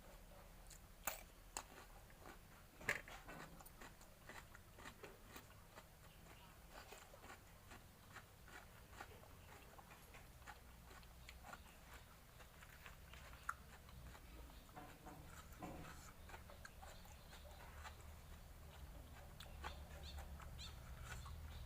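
Faint close-up eating sounds: a person chewing a raw-shrimp salad, with many small wet mouth clicks and smacks and a sharper click about three seconds in.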